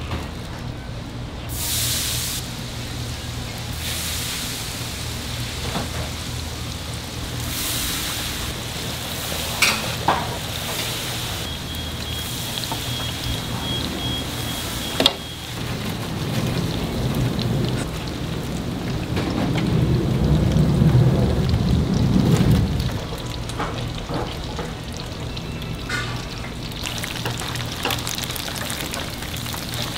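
Food frying in hot oil, the sizzle swelling and easing in bursts, with a few sharp clinks and a steady low hum underneath. There is a louder low rumble about two-thirds through.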